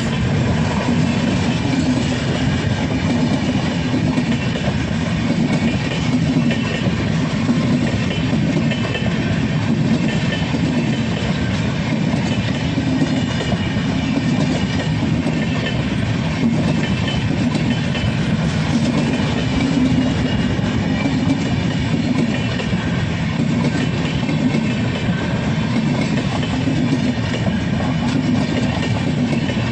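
Indian Railways express train passing close by at high speed: a steady loud rumble and rattle of the coaches running over the track, with no let-up.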